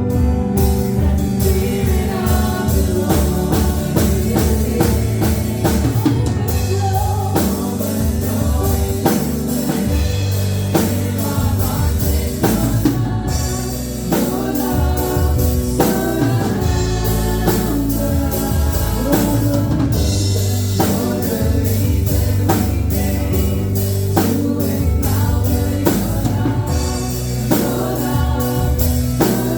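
Live gospel worship music: a band with drum kit playing a steady beat under sung voices.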